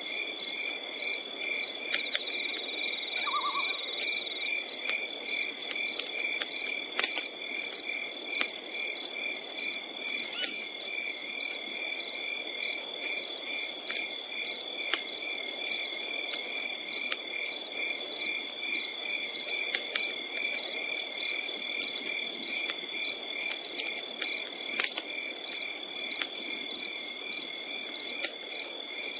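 Night insects chirping steadily: a continuous high buzz with evenly pulsed chirps. Scattered sharp pops and crackles from a wood campfire run through it.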